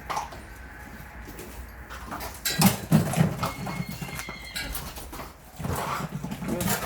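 Animal noises in two loud, rough bouts, one about two and a half seconds in and another near the end.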